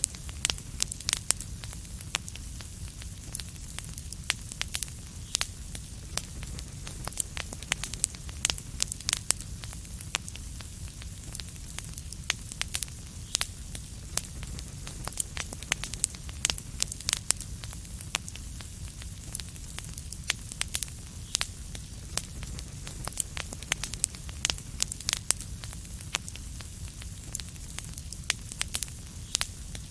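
Wood fire burning in a fireplace: irregular sharp pops and crackles, several a second, over a steady low rumble and a faint hiss.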